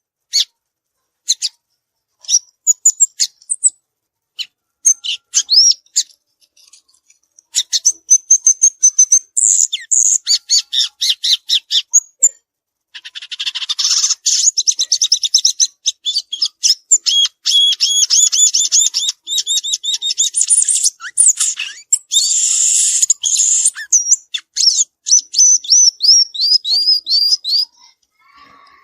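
Violaceous euphonia (gaturamo-verdadeiro) singing: high chips and short, quick twittering phrases at first, then a little before halfway a long, fast, almost unbroken run of high chattering and sweeping notes that stops shortly before the end.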